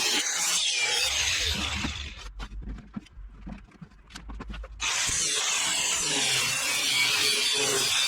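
Power tool cutting or grinding in a loud, even noise, which stops about two seconds in, leaving a few light knocks and clicks, and starts again abruptly about five seconds in.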